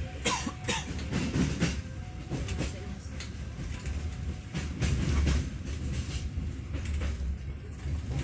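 Passenger train carriage rolling along the track: a steady low rumble with irregular clacks and knocks from the wheels and coupled cars.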